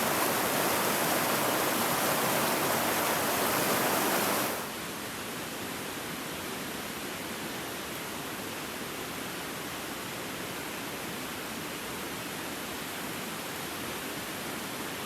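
River water rushing in a steady, even hiss. It is louder for the first four and a half seconds, then drops suddenly to a quieter level.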